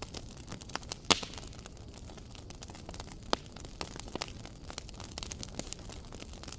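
Wood fire crackling in a fireplace: irregular sharp pops and snaps over a soft steady hiss, with one loud pop about a second in and another a little after three seconds.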